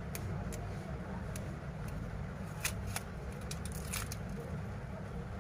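Scattered light clicks and taps of tools on a smartphone as its display is pried off the frame, with two sharper clicks about two and a half and three seconds in and a few more near four seconds, over a steady low rumble.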